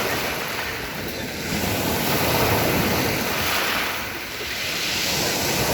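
Sea surf breaking and washing up a pebble beach, a steady hiss that swells twice as waves come in.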